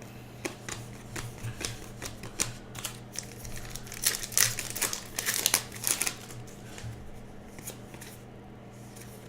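Baseball trading cards and their packs being handled: a run of quick flicks and crinkles, busiest in the middle and thinning out near the end.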